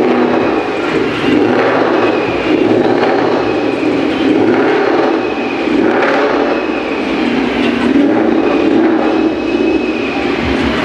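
Supercharged Ford Coyote 5.0 V8 of a Mustang GT running at a steady low speed as the car is driven slowly on its newly fitted clutch, a loud, even rumble.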